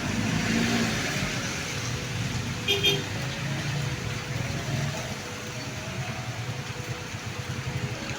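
Road traffic noise from passing cars, with a short horn toot a little under three seconds in.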